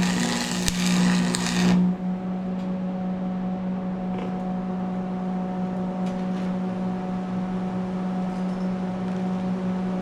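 An electric arc welder crackling as it lays a bead, stopping abruptly about two seconds in. A steady low electrical hum carries on after the arc stops.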